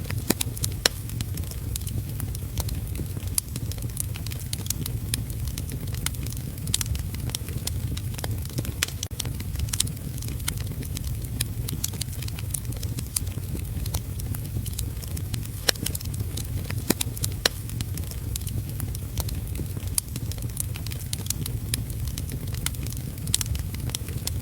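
Wood fire crackling in a fireplace, with frequent irregular sharp pops, over a steady low rumble and hiss of heavy rain.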